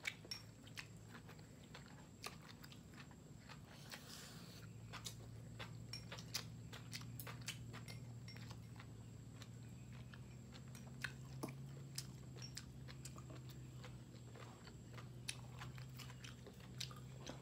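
Close-up chewing and crunching of grilled beef rolls filled with crisp vegetables and enoki mushrooms, with many short sharp mouth clicks and crunches. A low steady hum grows stronger about four seconds in.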